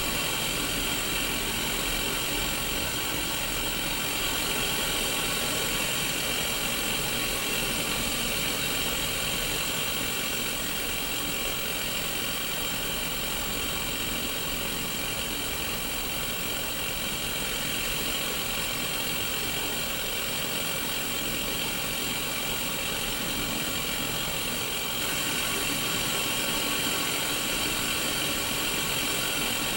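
Steady hiss of TV static from a Sony Mega Watchman black-and-white portable TV's small speaker, the no-signal white noise of a mini CRT set, strongest in the upper-middle range. It steps up slightly in level near the end.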